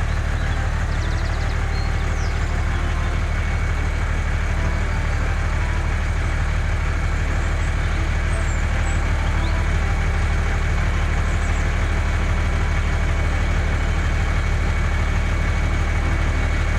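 Mini tractor's small engine running steadily at an even pace.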